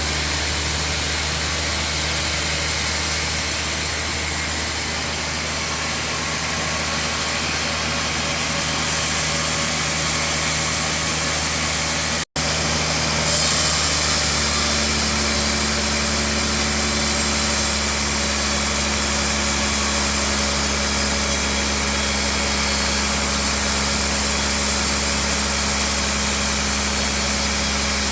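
Sawmill machinery running with a steady mechanical drone and low hum. It drops out for an instant about twelve seconds in, then continues with a slightly different tone.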